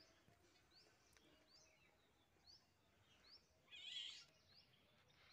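Near silence with faint bird calls: a short rising chirp repeated about every half second, and a brief warbling call about four seconds in.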